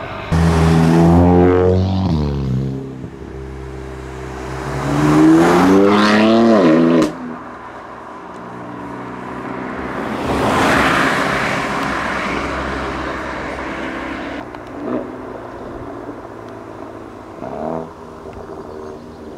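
Sports car engines revving hard as the cars accelerate away. One engine note climbs, drops briefly, then rises again to a high pitch before cutting off abruptly. A second car then pulls away with a rush of exhaust and road noise that swells and fades.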